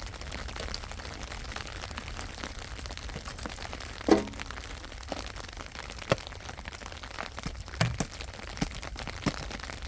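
A few irregular sharp cracks and knocks over a steady low hiss. The loudest is a single knock about four seconds in, with a brief ringing after it.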